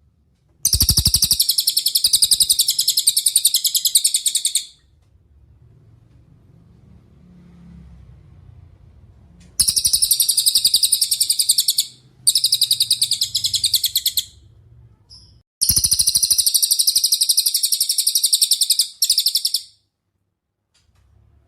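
Cililin singing: long, rapid, high-pitched trills. Four bursts of a few seconds each are separated by short pauses, the last ending in a brief extra trill.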